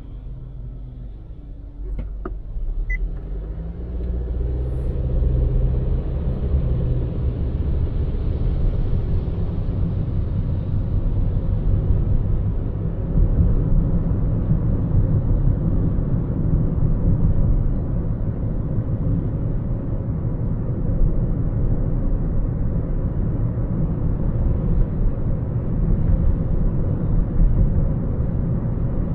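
Low rumble of a car driving, engine and tyre noise building over the first few seconds as the car speeds up, then holding steady. A click about two seconds in and a short beep just after.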